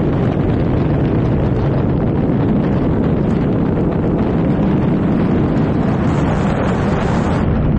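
Loud, steady rush of wind buffeting the microphone, an unbroken roar heaviest in the low end.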